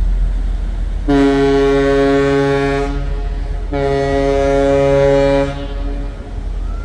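A ship's horn sounding two long blasts of about two seconds each, with a short gap between them, over a steady low rumble.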